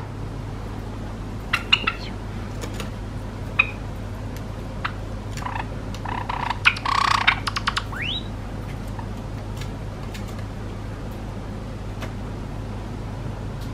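Java sparrow giving a few short chirps, then a brief flurry of louder chirps about halfway through, followed by a quick rising note. Scattered light clicks sound over a steady low hum.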